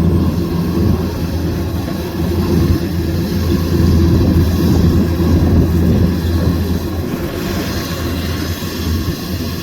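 Kubota DC105X rice combine harvester running at work: a steady, loud machine drone of engine and threshing gear, growing a little louder midway.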